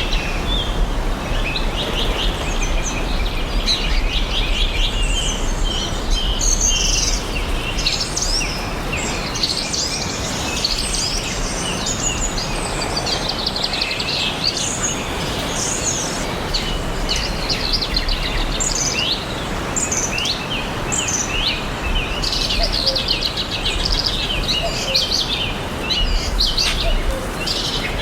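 Many songbirds chirping and singing at once, a dense chorus of short chirps and trills over a steady background hiss and low rumble.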